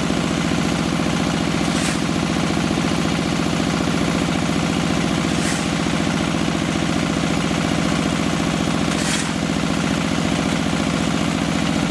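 Diesel engine of a QTJ4-40 hydraulic block-making machine running steadily, with a brief hiss three times, about every three and a half seconds.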